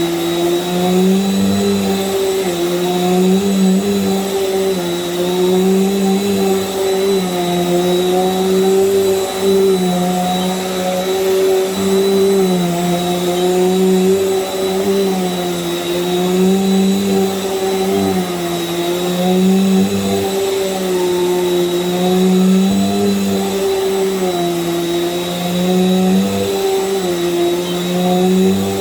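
Small Bissell vacuum cleaner running continuously on a rug. Its motor hum rises and falls slightly in pitch every second or two, over a thin steady high whine.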